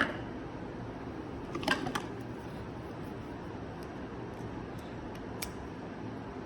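Small sharp clicks and taps of shower shut-off valve parts being handled while the valve is taken apart: one at the start, a cluster about two seconds in and a faint one near the end. A steady low hiss runs underneath.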